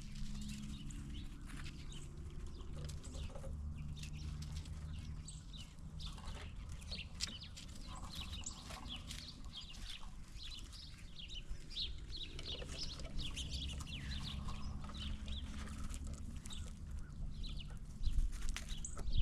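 Squirrels feeding on peanuts at a feeding table: many small, scattered clicks, scratches and shell cracks, over a low steady hum.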